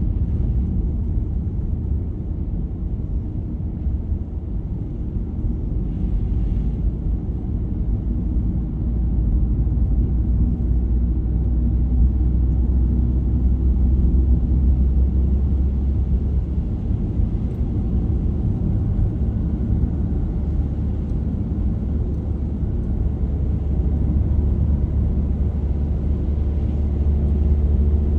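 A car driving, a steady low rumble of engine and road noise that gets a little louder about nine seconds in.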